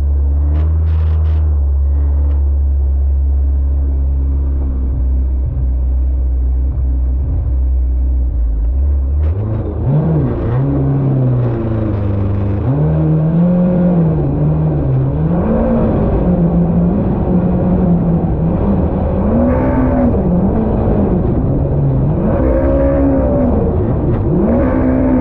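Personal watercraft's stock Yamaha SVHO supercharged engine running at a steady low pitch, then from about nine seconds in revving up and down over and over as the throttle is worked.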